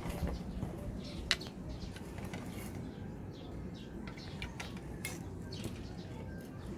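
A few sharp clicks and light taps of tools and parts being handled at a workbench, with birds chirping in the background.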